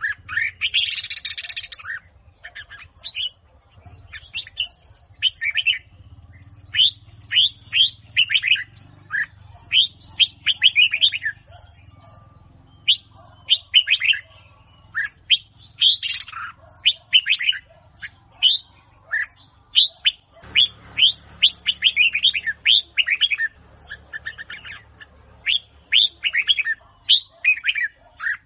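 Red-whiskered bulbul singing: phrase after phrase of short, quick whistled notes, with a harsh, scratchy stretch about a second in.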